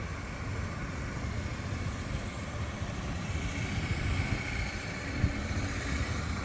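Street ambience: a steady low rumble of passing road traffic, with a faint thin whine coming in about halfway through.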